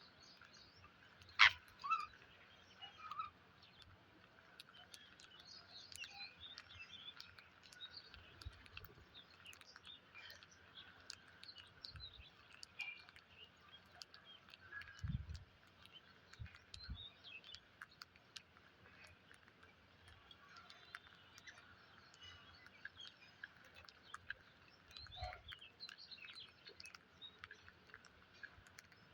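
Parrot calls: a sharp, loud screech about a second and a half in, then scattered soft chirps and chatter, with a few low thumps in the middle.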